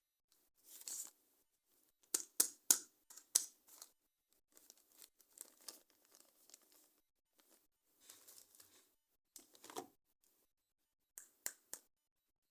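Toy packaging being torn open and handled: irregular rips and crinkles with several sharp clicks, in short bursts with pauses between them.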